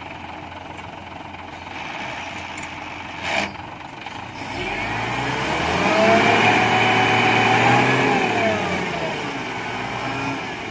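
Dump truck's diesel engine revving up, held at high revs for about two seconds and then easing back down, as a stuck truck tries to pull free. A short sharp knock comes about three seconds in.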